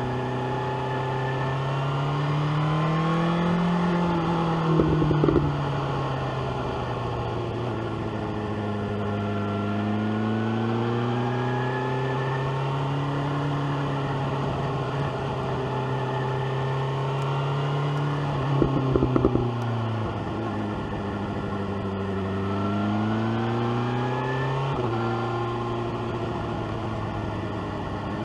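BMW S1000R inline-four motorcycle engine under way, the revs climbing and falling several times through the gears. A burst of sharp crackling pops comes twice as the revs drop, about five seconds in and again near the middle.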